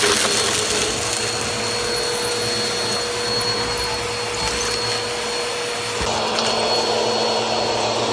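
Bissell PowerForce Helix upright vacuum cleaner running steadily at full speed, its motor giving a steady high whine over the rush of air, on a test run after its suction has been restored.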